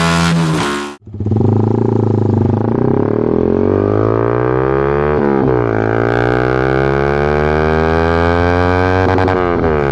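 Yamaha MT-series motorcycle engine and exhaust accelerating through the gears. The pitch climbs steadily, drops suddenly on an upshift about five seconds in, then climbs again to another shift near the end. Just before, a different clip of a bike engine holding a steady note cuts off at about a second.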